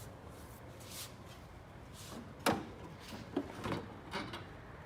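Plastic front bumper cover being handled and pushed into place on the car, giving a few scattered knocks and rubs, the sharpest a single knock about halfway through.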